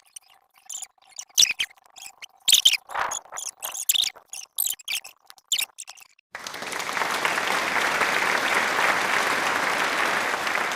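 Bonfire of old clothes crackling, with irregular sharp pops and snaps. About six seconds in, the sound cuts to a steady, even hiss that holds to the end.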